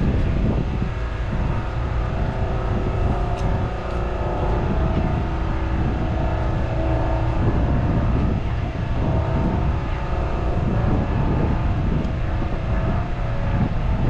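Heavy truck diesel engines running steadily at idle, a continuous low engine sound with a few steady tones above it.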